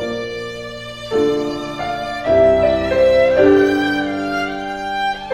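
Background music led by a bowed violin, playing slow held notes that change pitch every second or so.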